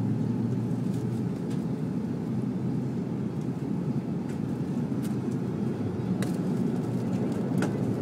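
Steady low drone of an Airbus A330-300's engines and airflow heard inside the passenger cabin, with a few faint ticks of cabin rattle.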